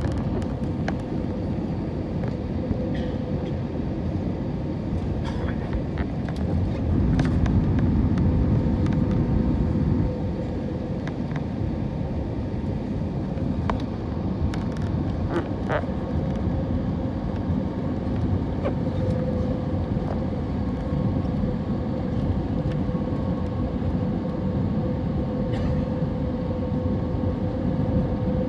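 Airbus A320neo cabin noise in flight: a steady low rush of airflow and engines with a constant hum tone, swelling louder for a few seconds about a quarter of the way in. Occasional light clicks and rattles sound over it.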